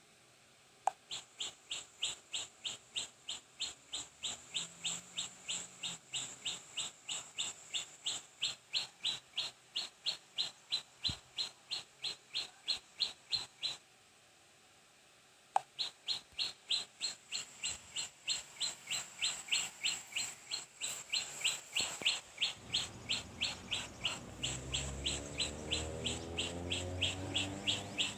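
A small bird chirping over and over in one short high note, about three chirps a second, very evenly spaced. The chirping breaks off for about two seconds in the middle, and a low rumble comes in near the end.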